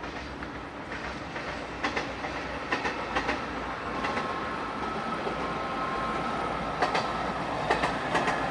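Passenger train passing on the line above, with a steady rumble that slowly grows louder and its wheels clicking over rail joints in twos and threes. A faint steady high whine joins about halfway.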